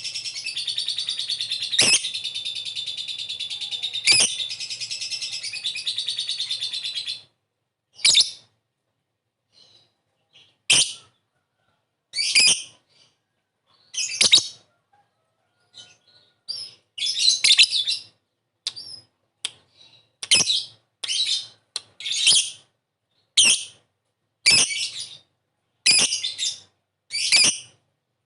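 Lovebird in a long, dense, high-pitched chattering trill (the 'ngekek' song) for about seven seconds, then stopping and giving short sharp single chirps every second or two.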